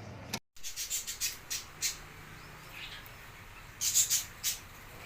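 Birds chirping in short, sharp, high notes: a quick run of chirps in the first two seconds and a louder cluster of four or so at about four seconds in.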